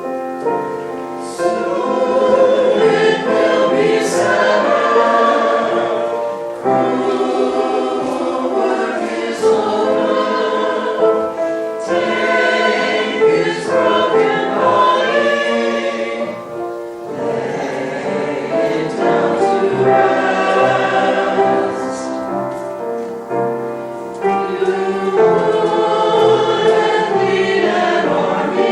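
Choir singing a number from a church cantata, in phrases with short breaks between them.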